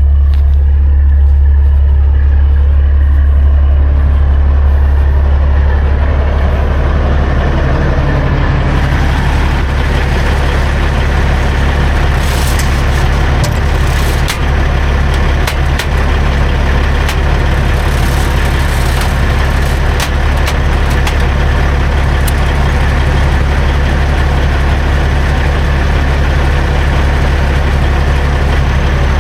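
Heavy diesel engine running steadily with a strong low hum, growing a little fuller and noisier over the first several seconds.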